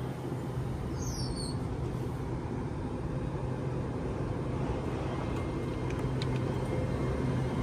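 LNER Azuma (Class 801) train pulling away from the platform. Its traction equipment gives a steady low hum with a few held tones, growing slowly louder as it draws closer. A short high chirp sounds about a second in.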